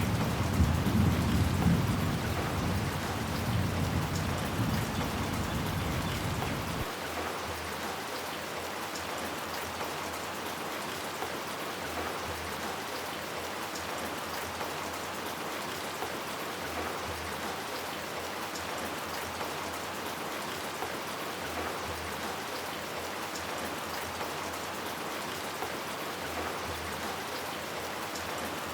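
Steady heavy rain falling, with a deep rumble of thunder under it for the first seven seconds or so that stops abruptly, leaving only the even rain hiss.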